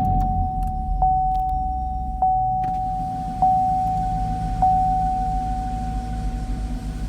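A car's electronic warning chime dings five times, about once every 1.2 seconds, each ding fading before the next. Beneath it, the Chevrolet Camaro SS's V8 idles with a low, steady rumble.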